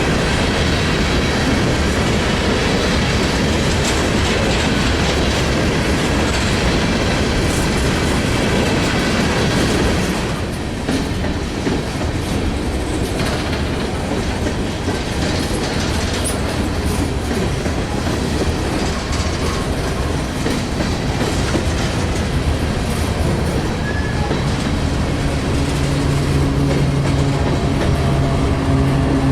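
Coal train of hopper cars rolling past, a steady rumble with wheels clicking over the rail joints. Near the end a steady low hum joins in.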